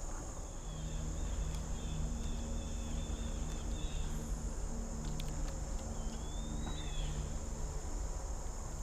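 A steady, high-pitched chorus of crickets, over a low rumble of background noise.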